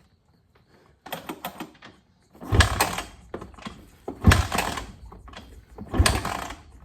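Suzuki RM-Z450 four-stroke single being kick-started: three hard kicks about two seconds apart, each a loud thump with a second-long burst of engine noise that dies away, the engine not staying running.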